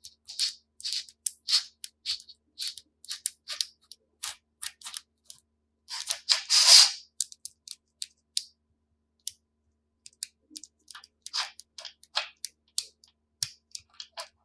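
Colored plastic magnetic building pieces clicking and clacking as they are handled and snapped together, with a longer, louder rattle about six seconds in.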